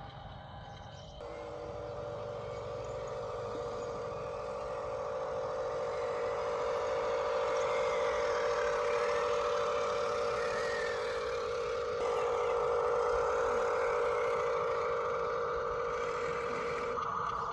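Electric motor and gearbox of a radio-controlled construction vehicle whining steadily, starting about a second in and slowly growing louder.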